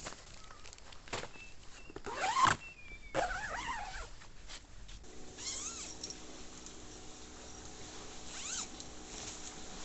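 Several short animal cries that bend up and down in pitch, the loudest about two seconds in and fainter ones later. About halfway through, a steady low hum starts and keeps going.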